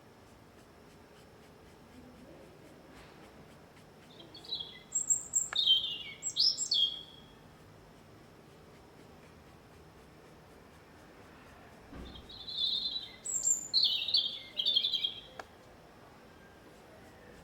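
A small songbird singing two short phrases of high-pitched notes, several seconds apart.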